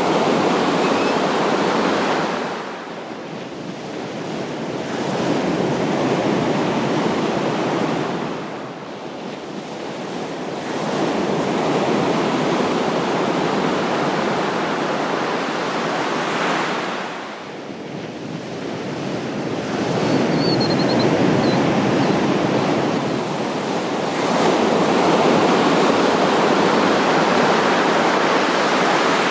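Ocean waves breaking and washing in, the surf rising and falling in long surges several seconds apart.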